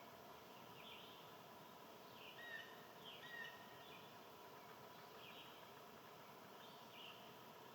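Faint songbird chirps repeating every second or two, with two short whistled notes a little after two seconds and after three seconds in, over a steady outdoor background hiss.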